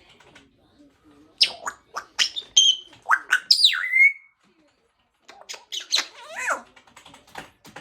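African grey parrot vocalising with a string of clicks and sharp whistles, including a whistle that sweeps down and back up about three and a half seconds in. After a short pause, more clicks follow and a falling whistle comes near the end.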